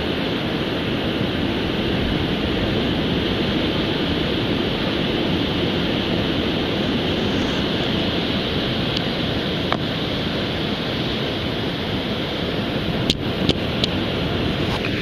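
Ocean surf washing steadily onto a beach, a continuous rush of breaking waves, with a few brief clicks near the end.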